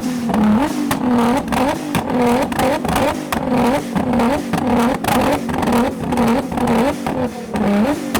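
Car engine revved hard over and over, its pitch dipping and rising about twice a second, with sharp exhaust pops and cracks among the revs.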